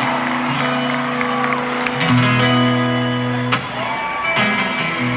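Live band playing a song's instrumental intro, led by strummed acoustic guitar chords that change every second or two.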